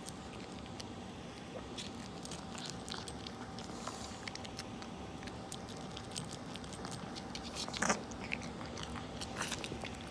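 A dog eating its food from a bowl: irregular crunching and clicking chews, with a louder knock about eight seconds in.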